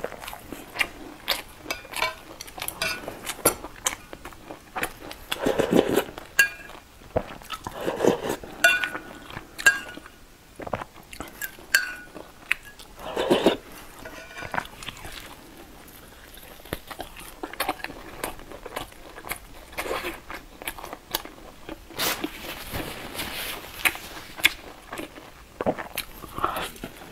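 Close-miked eating: biting, crunching and chewing a crispy fried flatbread, in many short crackly bites, with an occasional clink of a metal spoon against a ceramic bowl.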